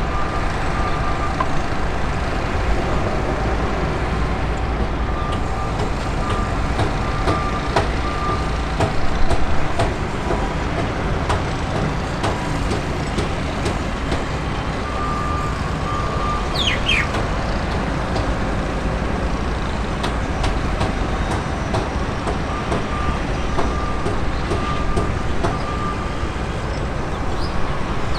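Steady low engine rumble, with a high repeated beeping that comes and goes a few times.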